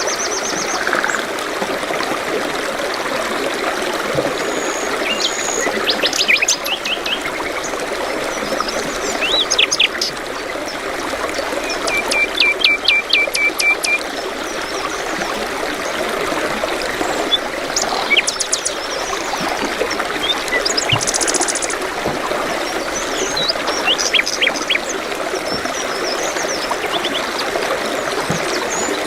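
Running water trickling steadily, with birds chirping and trilling over it now and then.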